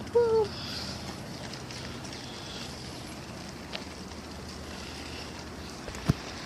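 A woman's short "woo" right at the start, then steady outdoor background noise with a small click midway and a sharp knock near the end.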